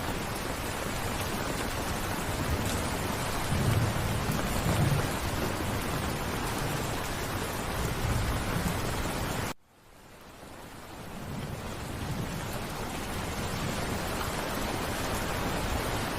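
Steady rain, with a low rumble of distant thunder about four seconds in. About two-thirds of the way through the sound cuts out abruptly and then fades back in over a couple of seconds.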